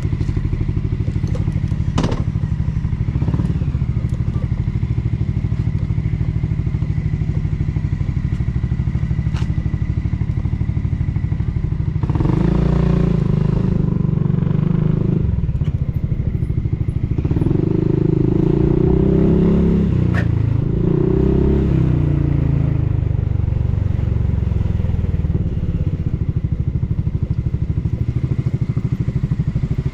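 Honda Forza 350 scooter's single-cylinder four-stroke engine through a Yoshimura full exhaust system, idling with a steady rhythmic pulse. It is revved up and back down twice, briefly about twelve seconds in and again for several seconds in the middle, before settling back to idle.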